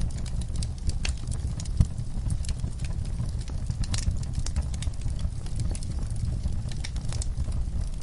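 Wood fire burning in a fireplace: a steady low rumble of flames with frequent irregular crackles and pops, one louder pop about two seconds in.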